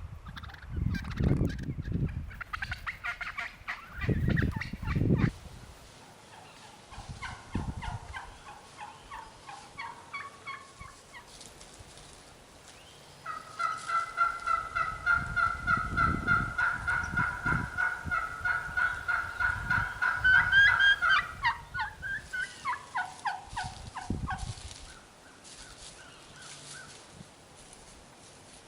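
Wild turkeys gobbling in repeated rapid, rattling calls. The longest and loudest run goes on for several seconds from about halfway through, and there are low thumps in the first few seconds.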